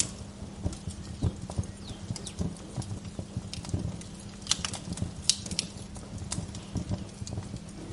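Wood fire crackling, with frequent irregular sharp pops and snaps over a steady low rumble. A few short, falling bird chirps come in now and then.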